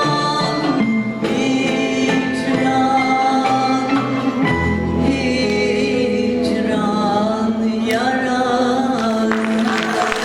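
Sung Turkish song with instrumental accompaniment, the voices holding long notes through the closing phrases. Applause begins near the end.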